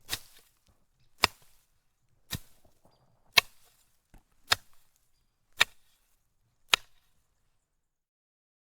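A sharp crack or knock, struck seven times at an even pace of about one a second.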